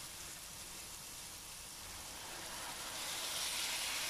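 Onions and ground spices frying in oil in a stainless steel pot, a steady sizzle that grows louder about three seconds in.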